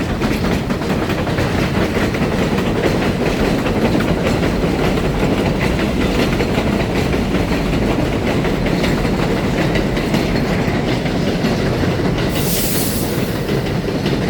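Train passing close by: a loud, steady rumble with the clatter of wheels over the rails. A brief high hiss comes about twelve seconds in.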